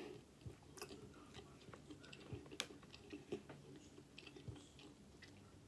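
Faint chewing of a mouthful of food, with a few scattered soft clicks and mouth smacks; otherwise near silence.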